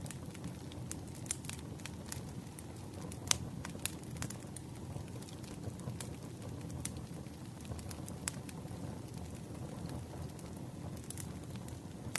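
Campfire crackling: a steady low rumble of burning wood with irregular sharp pops and snaps, two louder pops about three and four seconds in.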